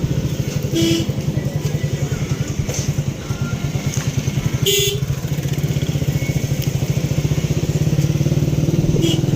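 Honda CG125 single-cylinder motorcycle engine running steadily on the move, with a rapid even putter. Two short sharp sounds come about a second in and about five seconds in.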